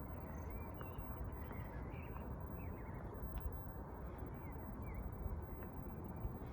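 Steady low outdoor city rumble with small birds chirping faintly: a scatter of short, high calls through the first five seconds or so.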